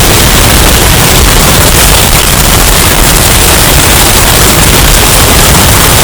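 Hurricane wind sound effect, bass boosted and overdriven into heavy distortion: a loud, steady, distorted rush of noise.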